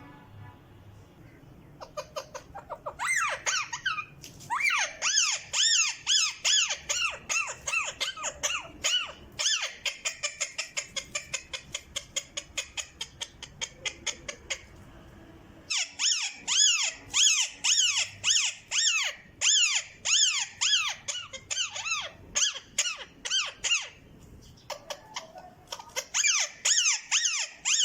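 A pet parrot giving rapid, high squeaky calls over and over, about two to four a second, in long runs broken by two short pauses.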